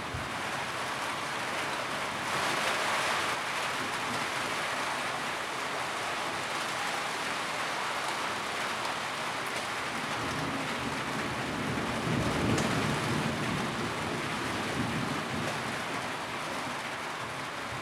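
Steady heavy rain drumming on a tin roof, an even hiss with a brief swell a couple of seconds in. A low rumble rises and fades about twelve seconds in.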